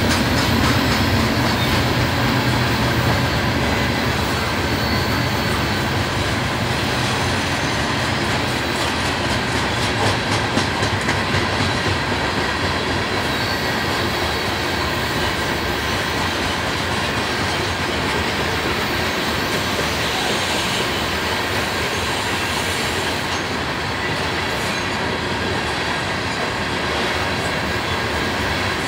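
Coal hopper cars of a freight train rolling past, a steady rumble and clatter of steel wheels on the rails.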